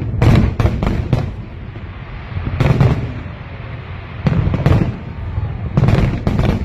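Aerial fireworks bursting: clusters of sharp bangs with crackle, several in quick succession in the first second, again about two and a half seconds in, twice around four and a half seconds, and again near the end, over a steady low rumble.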